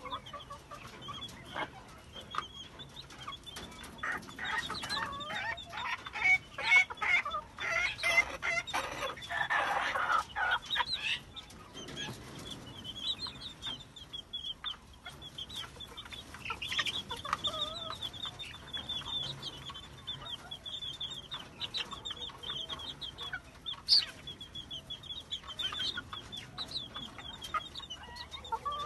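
Village chicken chicks peeping constantly in short, high, rapid cheeps, with louder, lower chicken clucks and calls mixed in during roughly the first twelve seconds.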